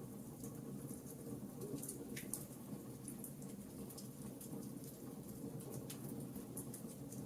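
Wood fire in a fireplace crackling: irregular small snaps and pops over a steady low rush.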